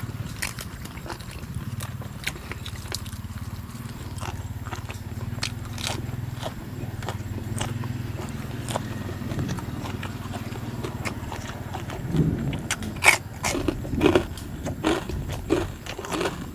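A person chewing and crunching food close to the microphone, with many short, sharp clicks of bites and chews over a steady low hum. The crunching grows louder and more frequent about twelve seconds in.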